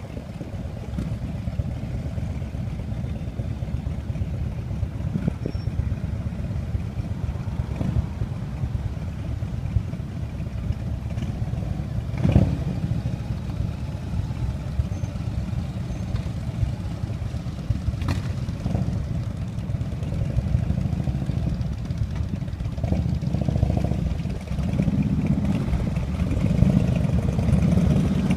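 Motorcycle engines running steadily in a group ride, a continuous low rumble. There are two sharp knocks, about twelve and eighteen seconds in, and the engine sound grows louder near the end.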